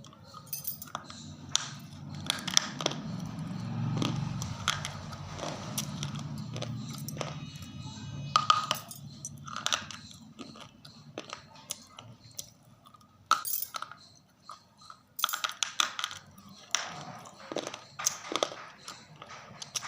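A person biting and chewing something crunchy close to the microphone: irregular sharp crunches throughout, with a low muffled chewing sound under them in the first several seconds.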